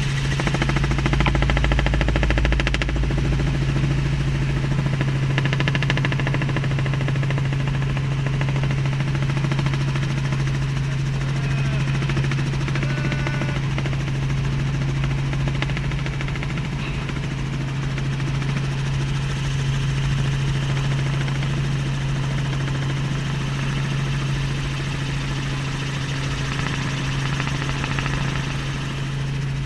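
Helicopter running steadily, a constant low drone with no change in pitch.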